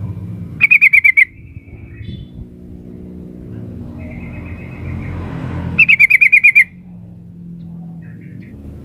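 A female yellow-vented bulbul calls twice, each time a quick burst of about seven bubbly, chattering notes, over a steady low hum. This is a female's call to a male, the kind played to a caged male to make him answer.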